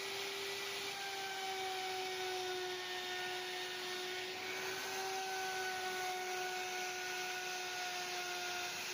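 Electric woodworking power tool running steadily with a constant whine over a hiss. A higher whine comes in about a second in and again about five seconds in, each time sagging slightly in pitch.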